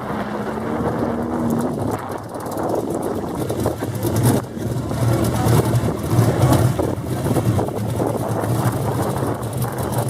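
Car engine running with a steady low rumble over general outdoor noise.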